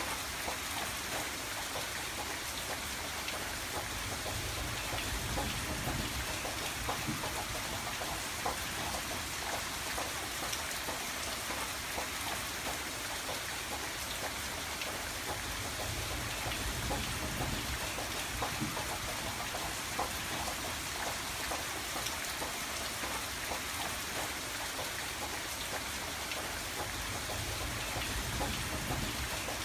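Steady rain on a window pane, a constant hiss with many small drops tapping on the glass. A low rumble swells and fades a few times underneath.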